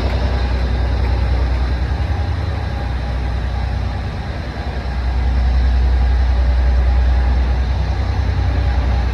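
Mainline diesel-electric locomotive engine running with a deep, steady rumble. It eases slightly about four seconds in, then builds again.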